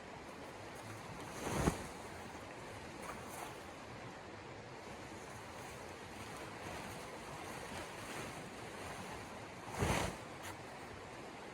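Steady wind noise of a snowstorm, with two brief louder rushes, one about a second and a half in and one near the end.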